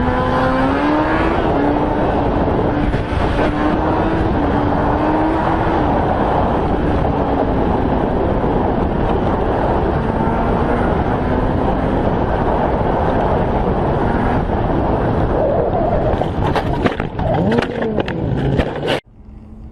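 Car driving at speed, recorded from the vehicle: a loud, steady engine note with road and wind noise, drifting slightly in pitch. Near the end come a quick series of sharp knocks and clicks, then the sound cuts off suddenly.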